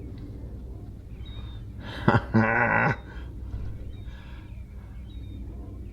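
A man's short wordless vocal sound about two seconds in, like a drawn-out sigh or 'ooh', over a steady low rumble, with a few faint high bird chirps.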